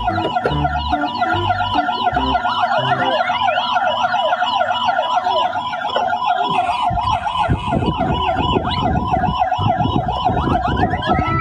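Electronic siren of a toy emergency vehicle wailing quickly up and down, about two sweeps a second. From about halfway in it is joined by a rattling clatter.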